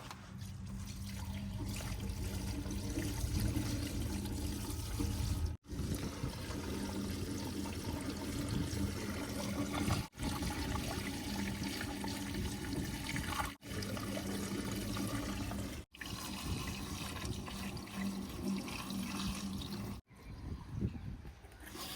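Diesel engine of heavy construction machinery running with a steady low hum and a rushing hiss, cut off abruptly for a split second five times.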